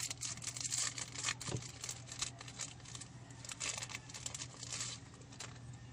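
Tea bag wrapper crinkling and being torn open by hand, a run of irregular crackles and rips that fades near the end.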